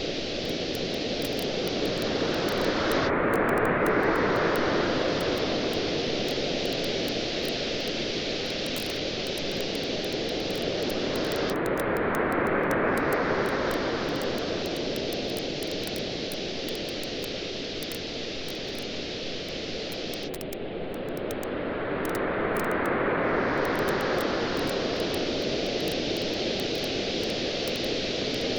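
Waves washing on a shore in three slow swells that rise and fall about every nine seconds. Sparse faint crackling pops from a wood campfire sound throughout.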